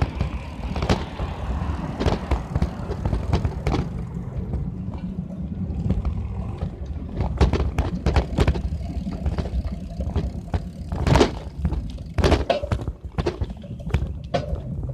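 Bicycle ride: a steady wind rumble on the microphone, with scattered clicks and knocks from the bike as it rolls along.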